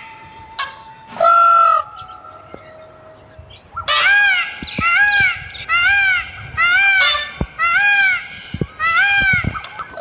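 A bird calling loudly: one drawn-out call about a second in, then, from just under halfway, a steady series of about eight short rising-and-falling calls, each roughly two thirds of a second after the last.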